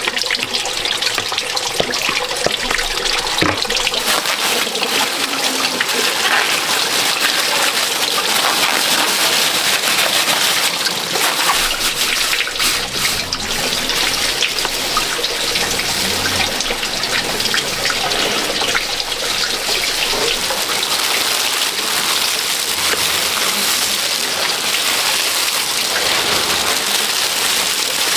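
Water running and splashing steadily, with many small drips and patters.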